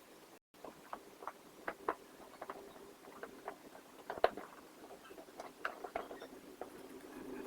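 Microfiber cloth wiping and rubbing over the plastic parts of a vacuum cleaner: irregular short squeaks and scuffs.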